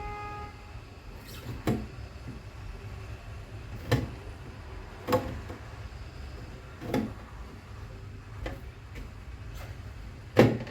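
Plastic fridge shelves and drawers clacking and scraping as they are fitted back into a refrigerator: six separate knocks a second or two apart, the loudest near the end.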